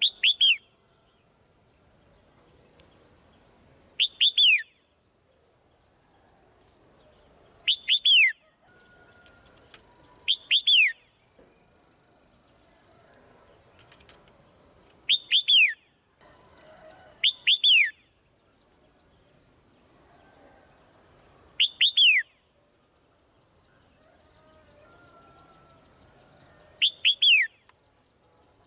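A bird calling repeatedly: eight short, loud chirps a few seconds apart, each a quick double note sliding down in pitch. A faint steady high hiss runs underneath.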